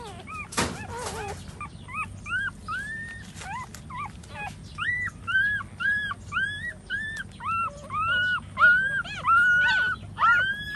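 Young puppies whimpering: a string of short, high-pitched cries that come more steadily and louder in the second half, about two a second. One sharp knock just under a second in.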